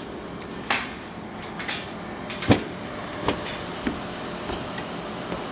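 A scattering of sharp knocks and clicks, about six in four seconds, the loudest about two and a half seconds in, over a steady background hum.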